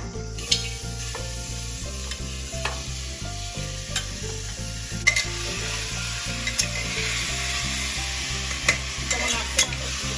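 Chicken and vegetables sizzling as they fry in a metal pot, with a spoon stirring and clicking against the metal now and then. The sizzling grows louder about halfway through.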